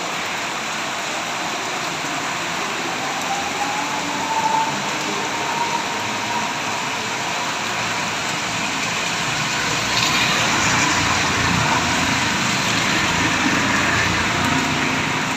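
Heavy rain falling steadily. About ten seconds in the sound grows louder and fuller, with a low rumble under the rain.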